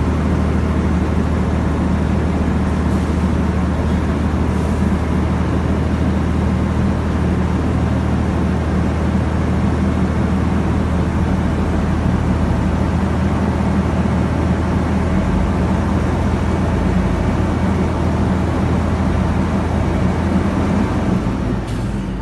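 Diesel truck engine running steadily, heard from inside the cab, while its air compressor builds brake pressure up to the governor cut-out at about 120 psi. Near the end the sound drops off suddenly.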